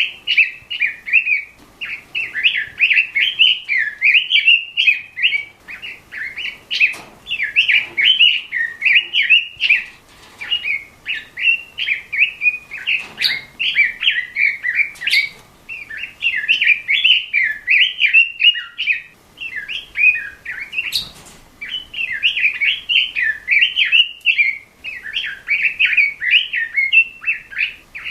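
Red-billed leiothrix (Pekin robin) singing a rapid, continuous warbling song in quick phrases with brief pauses between them, with a few sharp clicks here and there.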